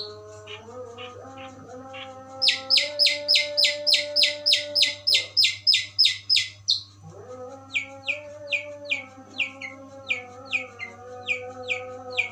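Long-tailed shrike (cendet) singing its 'tembakan gereja' song, a sparrow-like run of sharp chirps. About two seconds in comes a fast, loud volley of high chirps at about four a second, lasting some four seconds. After a short gap, a slower series of lower chirps follows. A faint steady hum and held low tones run beneath.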